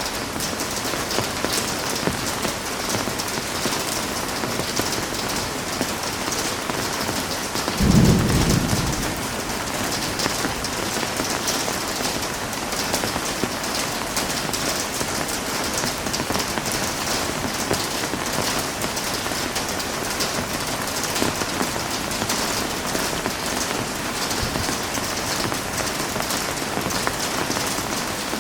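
Heavy rain falling steadily, with one short, deep thunderclap about eight seconds in.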